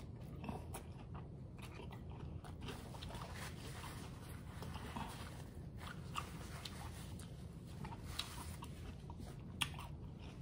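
Crunchy hard-shell corn taco being bitten and chewed close to the microphone: irregular crisp snaps and crackles of the fried shell.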